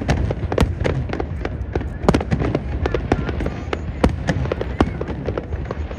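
Aerial fireworks bursting in rapid, irregular succession: many sharp bangs, several a second, over a continuous deep rumble.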